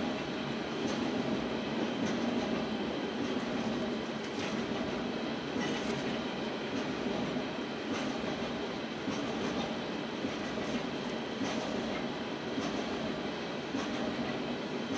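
Freight train's aggregate hopper cars rolling past: a steady rumble of steel wheels on rail, with scattered clicks and knocks about once a second.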